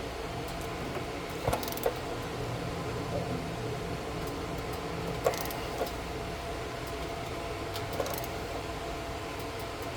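A few scattered metallic clicks and clinks from a socket wrench and extension as a new anode rod is screwed down into the top of a water heater, over a steady low hum.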